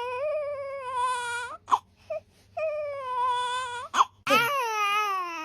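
Newborn baby crying: three long wails, each broken off by a short sharp intake of breath, the last one falling in pitch.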